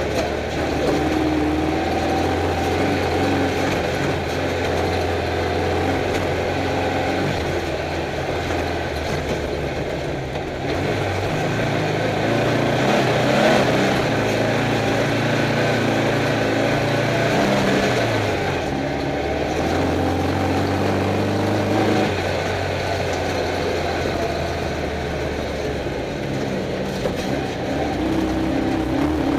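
Stock VW Beetle's air-cooled flat-four engine running, heard from inside the car, with engine speed rising through the middle and dropping back about 18 seconds in.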